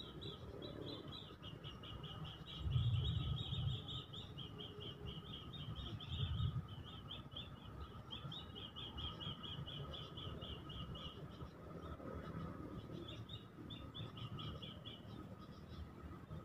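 Birds chirping in a high, rapid trill that runs in long stretches and breaks off now and then, over a faint steady hum. Two brief low rumbles come about three and six seconds in.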